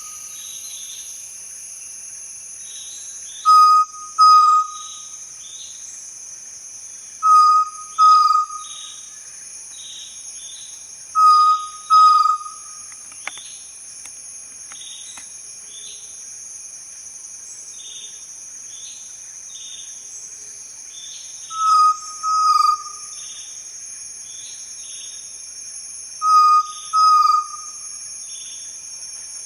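Forest quail calling: loud, short whistled notes given in pairs, the pairs repeating every four seconds or so with a longer pause in the middle. A steady high-pitched insect-like drone runs underneath.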